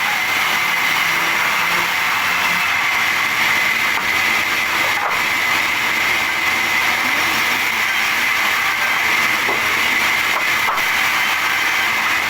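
Sawmill machinery running steadily, a constant noise with a thin high whine held throughout and a couple of faint clicks.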